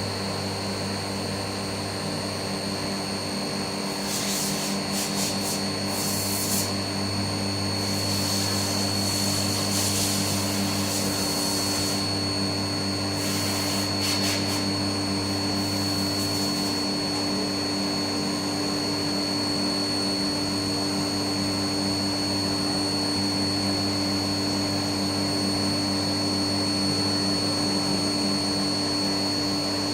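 Haas MiniMill CNC spindle running at speed with a steady high whine over a low machine hum, having just finished spinning up. Several short stretches of high hiss come and go in the first half as the engraving tool cuts into the brass plate.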